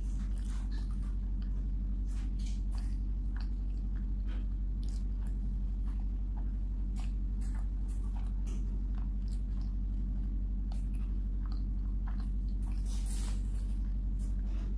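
Close-miked chewing of food: soft, irregular wet mouth clicks and smacks, over a steady low electrical hum.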